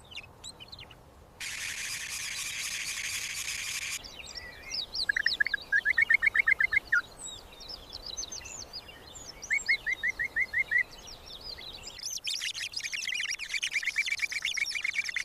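Small birds chirping, with a rapid trill of short, evenly spaced notes about five seconds in and again about ten seconds in, and a dense run of chirps from about twelve seconds. About a second and a half in, a steady hiss lasts a few seconds.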